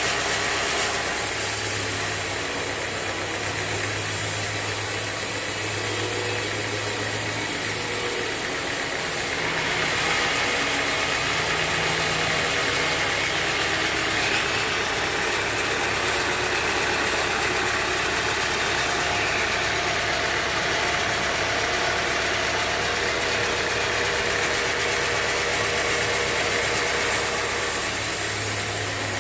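Sawmill band saw and its drive running steadily: a motor hum under a dense high hiss, with a change in the hiss about nine seconds in.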